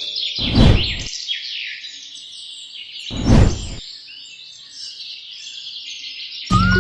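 Small birds chirping rapidly in short falling notes, with two brief rushing whoosh-like noises, one about half a second in and one about three seconds in. Music comes in near the end.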